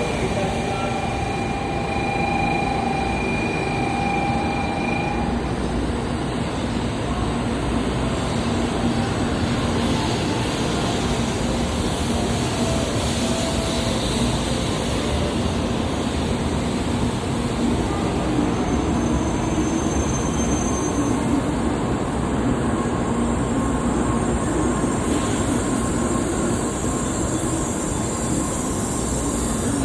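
N700A-series Shinkansen train pulling into the station platform, its steady running noise from wheels on rails holding at an even level.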